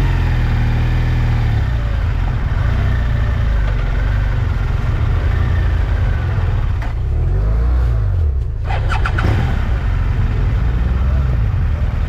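Adventure motorcycle engine running under throttle, its note rising and falling, with a brief drop in engine note about eight and a half seconds in.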